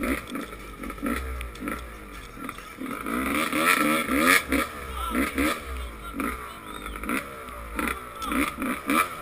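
Motocross dirt bike engines revving hard, the pitch climbing and dropping again and again as the riders open and close the throttle. The bikes are loudest a few seconds in.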